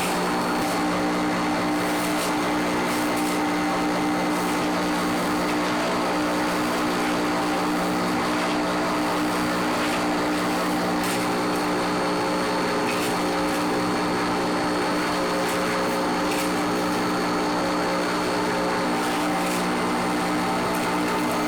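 Steady machinery drone with a constant low hum, unchanging throughout, with faint occasional ticks.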